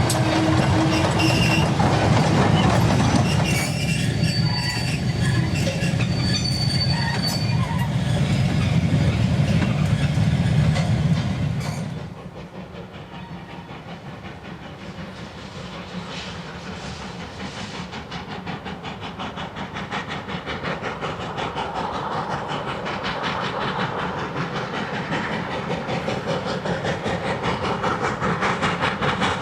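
Heritage steam train running, with the wheels clicking over rail joints. About twelve seconds in, the loud sound cuts off suddenly to a quieter train that grows steadily louder as it comes closer, with a fine regular beat.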